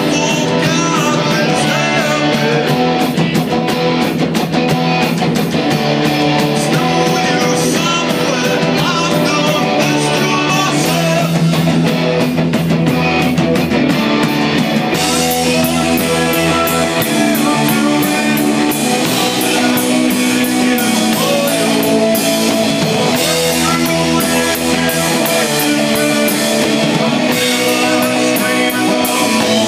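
A live rock band playing heavy metal: electric guitars and bass over a steady drum-kit beat, with the cymbals coming in much louder about halfway through.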